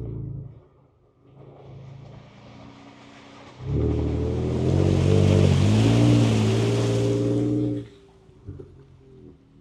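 Ford Ranger Raptor's twin-turbo V6 heard from inside the cabin: the engine eases off, then pulls hard under throttle for about four seconds with a hiss above it, and drops back sharply when the throttle is released.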